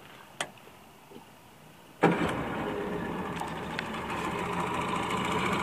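1986 Yamaha 40 HP three-cylinder two-stroke outboard motor starting about two seconds in, catching at once and settling into a steady idle. A single click is heard shortly before.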